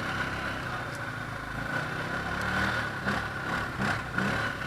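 ATV engine running at low revs, its pitch shifting slightly, with a steady high whine over it and a few short knocks or splashes in the second half.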